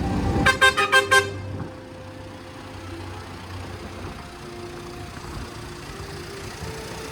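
A vehicle horn tooting about five quick times in a row, then a low, steady engine hum with faint music.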